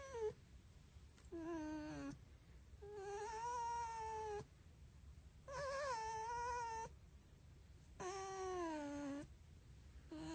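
Fox making a series of long, wavering, whining calls while being petted: about four calls with short pauses between them, the pitch sliding and quavering within each one.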